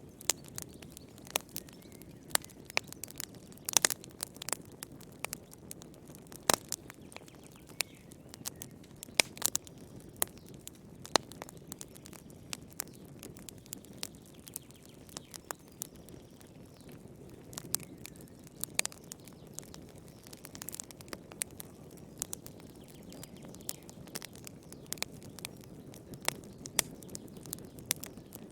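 Fire in a fireplace crackling: irregular sharp pops and snaps, a few a second, over a soft steady rumble of the flames.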